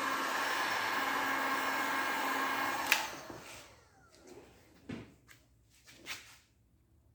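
Electric heat gun blowing steadily while warming heat-activated glue. About three seconds in it is switched off with a click and winds down, followed by a few light knocks.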